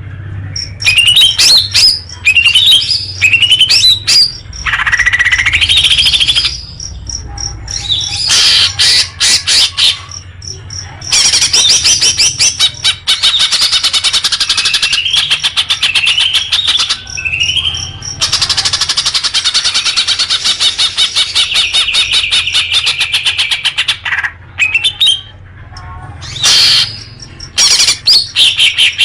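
Songbird singing loudly in fast, dense trills with repeated rising whistled phrases, broken by a few short pauses.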